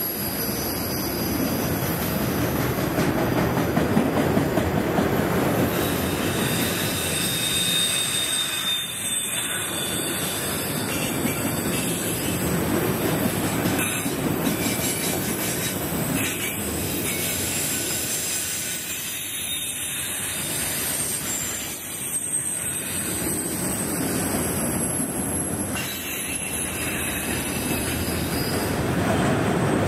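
Freight train of autorack cars rolling past on a curve: a steady rumble of steel wheels on rail, swelling and easing as the cars go by, with high-pitched wheel squeal coming and going over it.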